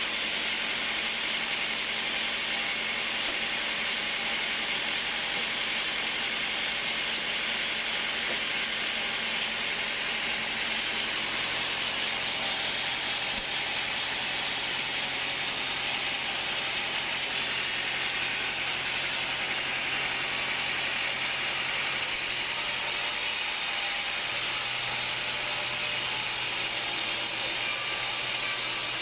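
Sawmill machinery running steadily with a constant hiss-like noise and a faint hum; a lower hum comes in about three-quarters of the way through.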